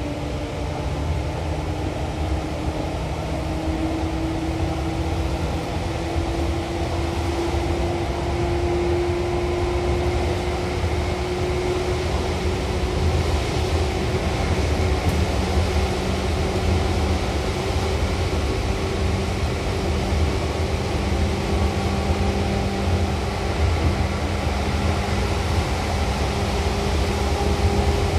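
Seibu 2000 series electric train running: a steady rumble of wheels on rail with motor hum. A faint tone slowly rises in pitch over the first ten seconds or so.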